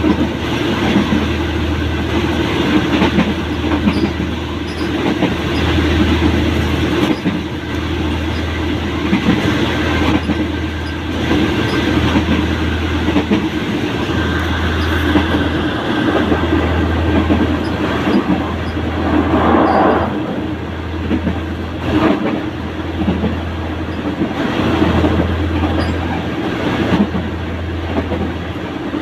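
Diesel-hauled passenger train running at speed: steady running noise with the wheels clattering over rail joints, heard right beside the locomotive.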